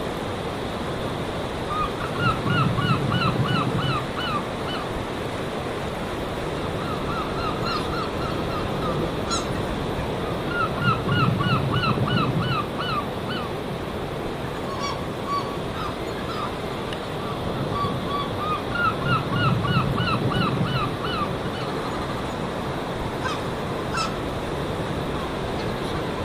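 A bird calling in quick runs of short, repeated pitched notes, about five a second, in three bouts several seconds apart, over a steady rushing background.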